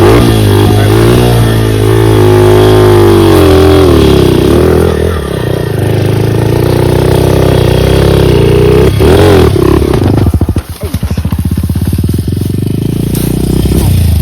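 Dirt bike engine revving hard, its pitch rising and falling. About ten seconds in it drops to a low, uneven chugging.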